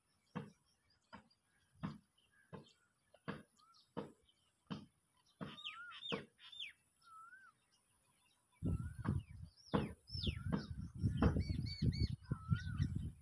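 Bird chirping in short rising and falling calls, over regular knocks about every three quarters of a second. From about nine seconds in, a heavy low rumbling noise comes in under the calls.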